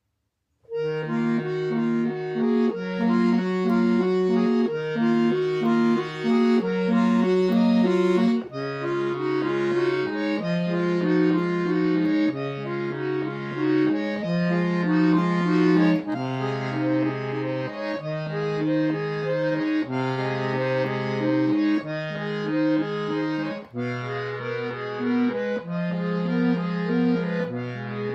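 Free-bass accordion playing, its mid-range bass notes moving in a slow line, a new note every second or two, under sustained chords.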